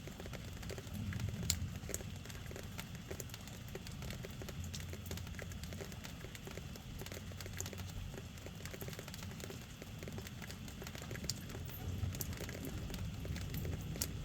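Rain falling steadily, with scattered drops ticking sharply on a hard surface over a low, steady rumble.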